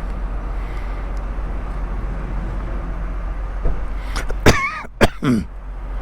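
Indian Scout Bobber motorcycle's V-twin engine running steadily, then a short throat clearing about four and a half seconds in.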